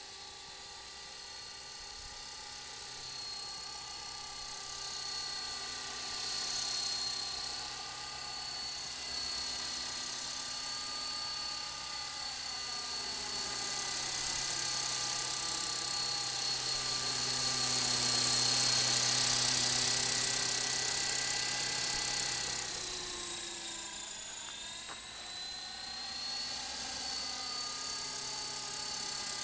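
Electric motors and rotors of a Walkera LM3 radio-controlled toy helicopter whining in flight, a high, steady, many-toned buzz. It grows louder through the middle, then dips in pitch and level for a moment before picking back up.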